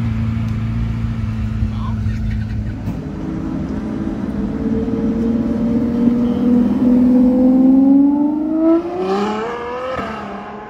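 A car engine idling steadily for the first few seconds, then a Ferrari sports car accelerating away, its engine note rising steadily for several seconds before fading as it drives off.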